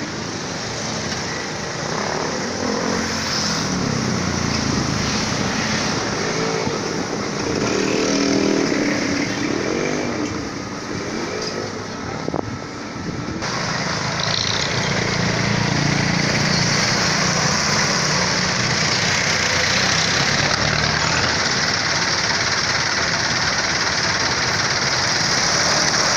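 Steady road noise heard from a moving e-bike, with motor vehicles passing, their engine pitch rising and falling between about two and eleven seconds in.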